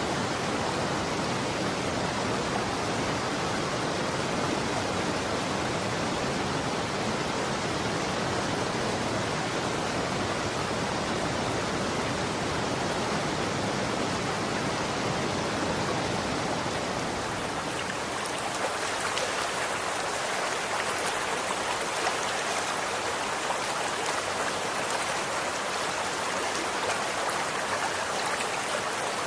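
Running water flowing steadily in a continuous rushing wash. About eighteen seconds in the deep rumble falls away and it turns brighter and more splashy, with fine drips and droplets.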